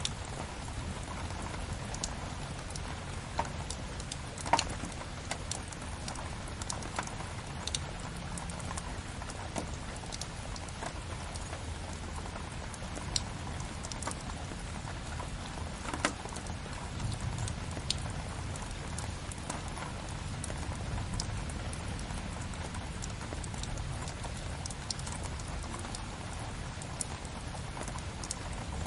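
Steady rain with a crackling wood fire: an even hiss of rain over a low rumble, broken by scattered sharp pops and crackles, the loudest about four and a half and sixteen seconds in.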